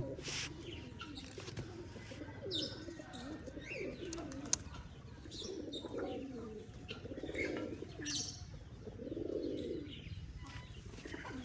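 Pigeons cooing: a series of low, rounded coos, with short higher chirps among them and one sharp click about four and a half seconds in.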